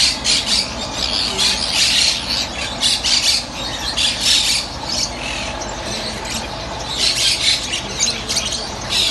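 Many caged birds chattering and squawking at once, a dense run of shrill calls that swells and eases, loudest around two, four and seven to eight seconds in.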